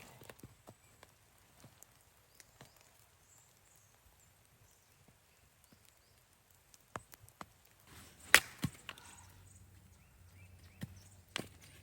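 Scattered sharp clicks and knocks at an irregular pace, the loudest a single crack about eight seconds in.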